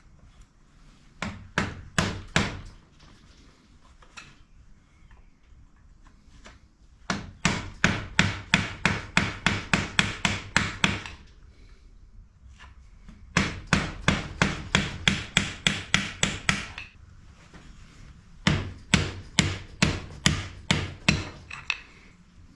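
Hammer blows on a trials motorcycle's rear suspension parts during servicing, struck at about four a second in three long runs with short pauses between, after a few strikes near the start.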